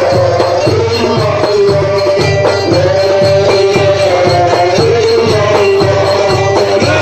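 Live Egyptian Port Said folk (simsimiyya) band music: a held, gently bending melody over a steady, repeating bass and percussion beat.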